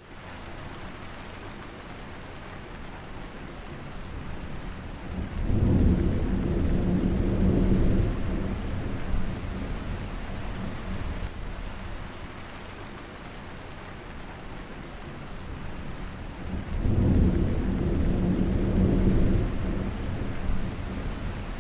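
Steady rain falling, with two low rolls of thunder, one about a quarter of the way in and one about four-fifths of the way in; the thunder is the loudest sound.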